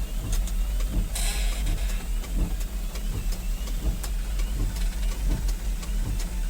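Diesel dump truck running under load at low speed, with light knocks and rattles, and a short hiss a little over a second in.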